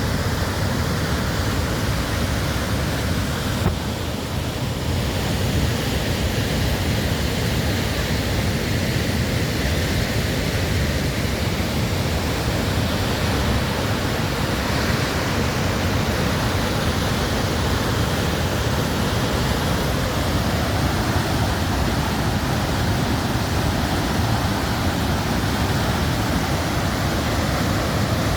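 Steady rushing roar of Aharbal waterfall, a large volume of water pouring over rock, with a brief click and dip about four seconds in.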